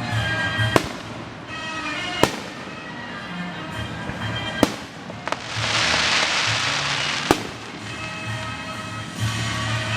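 Fireworks display: four sharp aerial shell bangs a second or two apart, with a loud stretch of hissing crackle about halfway through. Music plays steadily underneath.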